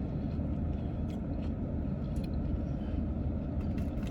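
Steady low rumble inside a car's cabin, like the engine idling, with a few faint clicks.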